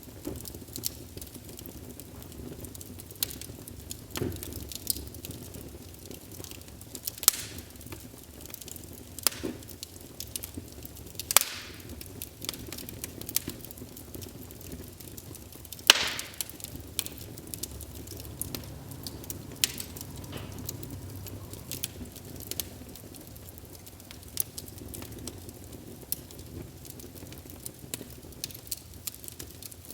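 Wood fire burning in a fireplace, with irregular sharp crackles and pops over a low steady rumble; the loudest pops come about 11 and 16 seconds in.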